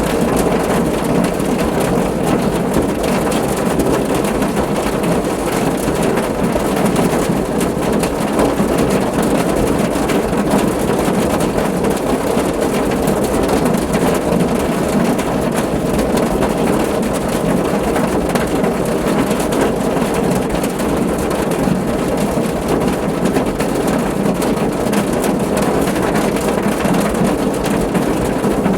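Steady rain drumming on a car's roof and body: a dense, even patter with a low rumble beneath it.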